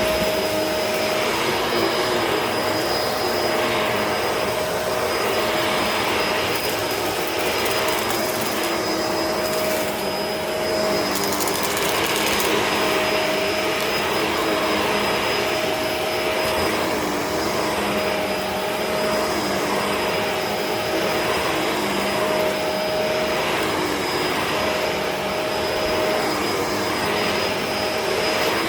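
Upright vacuum cleaner running steadily over a dirty carpet, its tone swelling and easing about every two seconds as it is pushed back and forth. A short stretch of added high hiss comes about a third of the way in.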